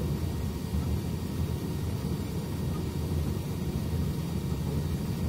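Steady low rumble of a 489-series limited express electric train running at speed on the rails, heard from inside the carriage.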